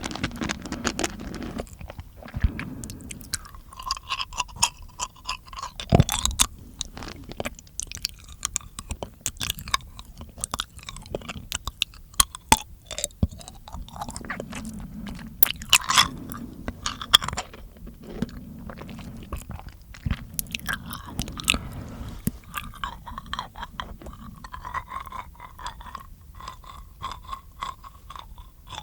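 Close-miked mouth sounds: many quick wet clicks and smacks at an irregular pace, like chewing.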